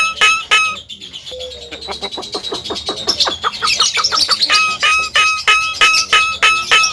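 Javan myna (jalak kebo) calling: a fast string of short, repeated ringing notes, about three a second. About a second in they give way to a faster rattling chatter, and the repeated notes resume near the middle.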